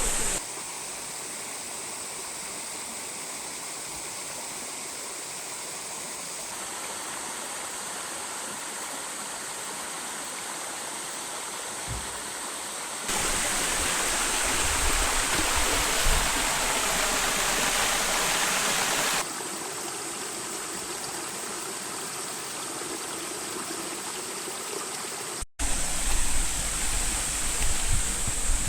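Hiryu Falls waterfall rushing, a steady spray of falling water. It jumps louder for a few seconds about halfway through, then drops back, and cuts out for an instant near the end.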